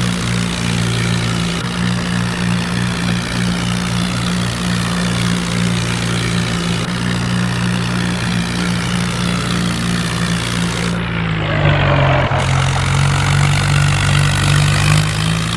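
Diesel tractor engine running hard under load, as in a tochan tractor tug-of-war. It holds a steady pitch, then drops lower about three-quarters of the way through and stays there.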